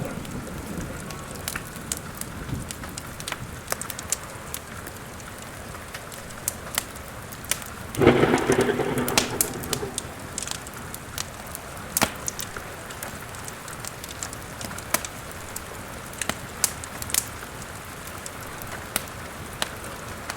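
Steady rain with the sharp pops and crackles of a wood fire scattered throughout. A rumble of thunder swells about eight seconds in and dies away over a couple of seconds.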